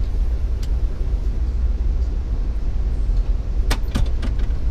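Steady low rumble of a moving passenger train heard from inside the coach, with a quick run of four sharp clicks about three and a half seconds in.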